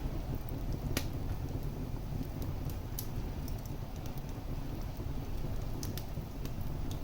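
Wood fire burning in a fireplace: a steady low rumble of the flames with sharp, scattered crackles and pops, the loudest about a second in.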